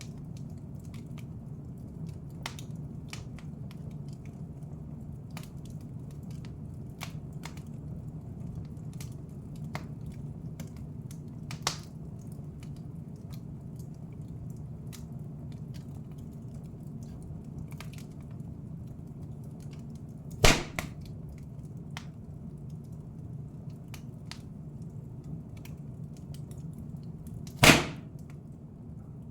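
Wood fire in a fireplace crackling, with a steady low rumble and many small scattered crackles. Two loud sharp pops come about twenty seconds in and again near the end.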